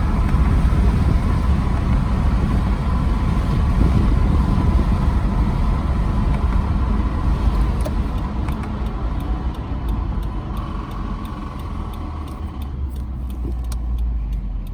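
2014 Subaru Forester XT with the 2.0 turbo FA20 engine, running with a steady low rumble of engine and road noise. The engine has a spun bearing. About halfway through, the rumble eases off and faint ticks start to come through.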